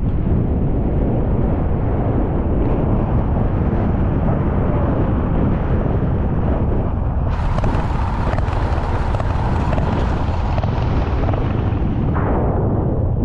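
Steady low rumble of a vehicle driving along, with wind buffeting the microphone.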